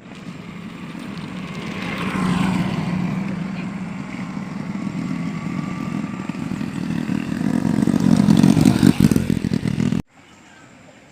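Motorcycle engine running, growing louder over several seconds, then cutting off abruptly about ten seconds in.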